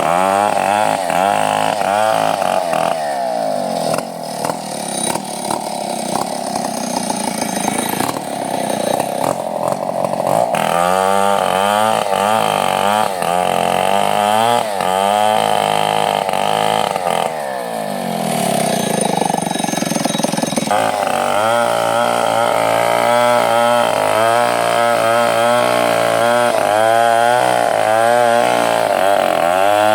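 Two-stroke chainsaw running continuously while cutting wood, its engine pitch rising and falling over and over as the chain loads in the cut and is throttled.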